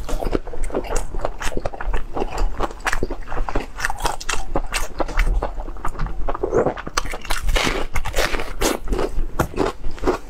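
Close-miked eating sounds: wet chewing of tender stewed lamb, with crisp crunching bites into a raw red onion around the middle.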